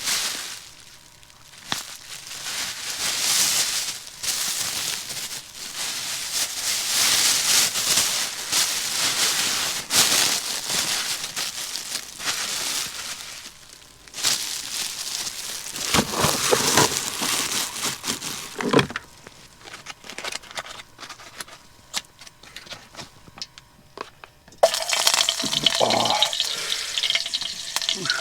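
Water running and splashing in uneven bursts, then quieter handling sounds; near the end a sizzle of frying starts suddenly and carries on.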